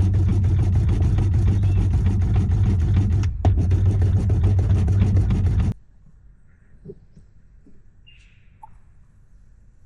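Car engine running with road noise, a steady low hum that starts suddenly and cuts off sharply a little under six seconds in. Faint background with a few bird chirps follows.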